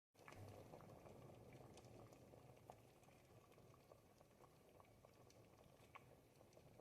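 A pot of ribollita, thick Tuscan bread and vegetable soup, bubbling quietly over the heat: a steady low burble with a few sharper pops scattered through it.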